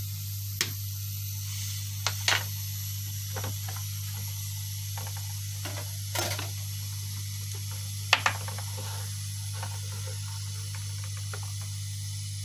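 Hot-air rework station blowing steadily, a low hum under a hiss of air, with a few sharp clicks and taps of tools on the motherboard.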